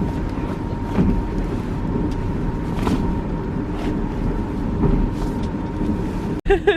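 Steady low rumble of a moving passenger train heard inside the carriage, with a faint steady hum and a few light knocks. It cuts off abruptly near the end.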